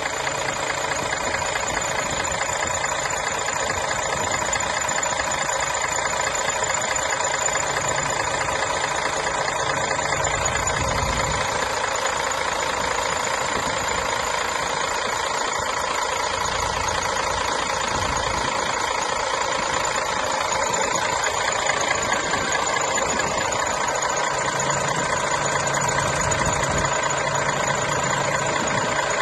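Mercedes-Benz Citaro city bus engine idling steadily.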